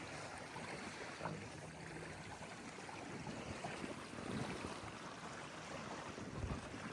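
Water lapping and wind noise with no clear events, and a dull low knock about six and a half seconds in.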